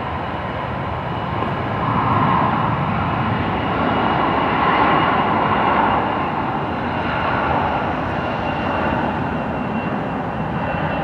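Aircraft engine noise: a steady rush with a faint high whine, growing louder for a few seconds about two seconds in, then easing.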